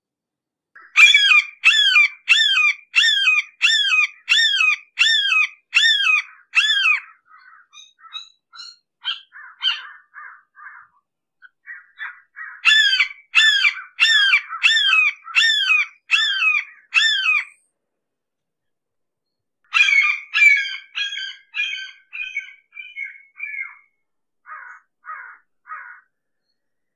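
Red-shouldered hawk calling in runs of repeated high kee-ah screams, about two a second. There are three loud runs with fainter, shorter calls between them and near the end.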